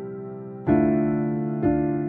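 Background music: soft electric piano holding a chord, with new chords struck about two-thirds of a second in and again near the end.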